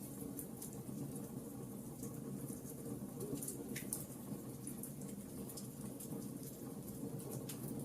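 Wood fire crackling: a steady low rush with frequent sharp pops and snaps.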